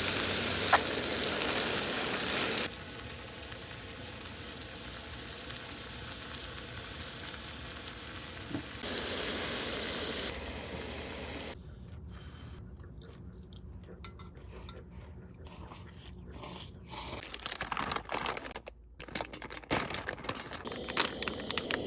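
Cooking and table sounds: a steady hiss in two stretches, then scattered clinks and taps of dishes and utensils that grow busier near the end.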